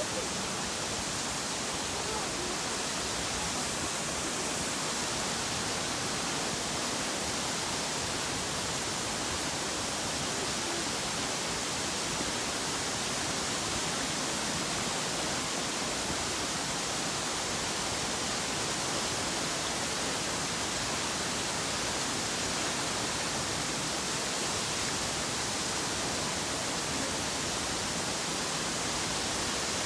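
Nachi Falls, a tall waterfall, rushing steadily: an even, hissing wash of falling water that holds the same level throughout.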